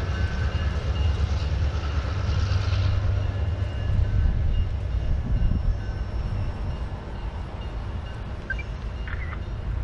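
Tank cars of a railway weed sprayer train rolling away over the rails: a steady low rumble of steel wheels that eases off in the second half as the train draws away.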